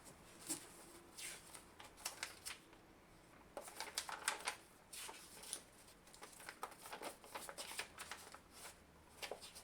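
Pages of a paper instruction manual being leafed through: an irregular run of short rustles and flicks of paper.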